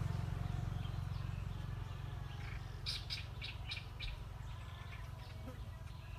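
A small bird chirping: a quick run of about five short, high chirps about three seconds in, with fainter calls around them, over a steady low hum.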